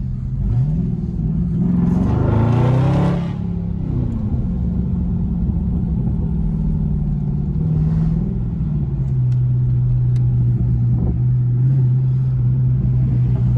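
Dodge Scat Pack's 6.4-litre HEMI V8 exhaust, loud, revving up sharply about two seconds in and dropping back, then holding a steady drone over the last few seconds.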